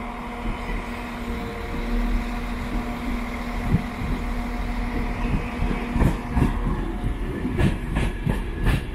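Transport for Wales Mark IV passenger train running into the platform with a steady hum and a held tone. From about six seconds in, its wheels click over the rail joints.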